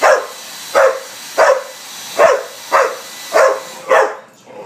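A pit bull barking repeatedly, about seven sharp barks in a steady rhythm, at a running hair dryer whose steady rush of air cuts out near the end.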